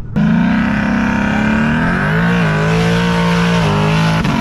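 A car engine held at high revs, starting suddenly. The pitch steps down slightly about halfway and holds, then falls off and picks up again near the end.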